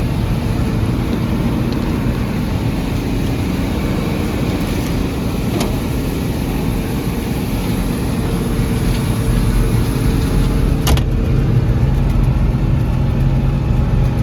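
A vehicle engine running steadily at a constant pitch, with two short clicks, one around the middle and one near the end.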